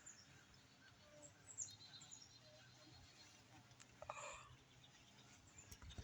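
Near silence: faint background with a few distant bird chirps, one at about one and a half seconds in and another at about four seconds in.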